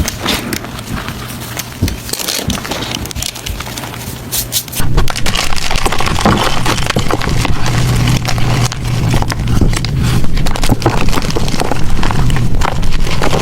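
Blocks of gym chalk being crushed and crumbled by hand: dense crunching and crackling that gets louder and fuller about five seconds in.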